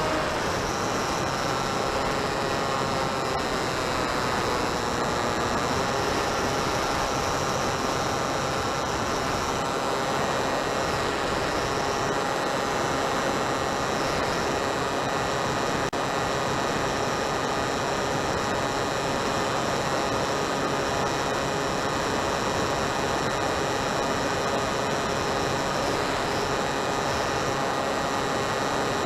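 Electric motor of an RC model plane running steadily in flight, a pitched whine over a constant hiss, its pitch easing down a little in the first few seconds and then holding steady.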